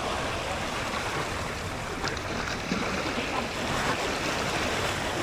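Sea waves and wind on the microphone, a steady rushing noise.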